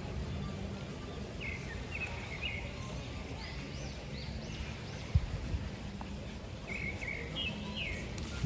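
Small birds chirping, a few quick calls about a second and a half in and again near seven seconds, over a steady low outdoor rumble, with one short knock about five seconds in.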